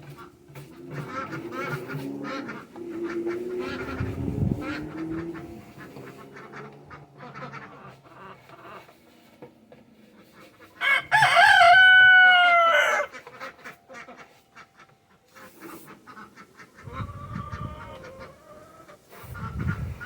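A rooster crows once, a loud call of about two seconds a little past the middle that drops slightly in pitch at the end. Lower, quieter calls of other fowl and scattered clicks come before it.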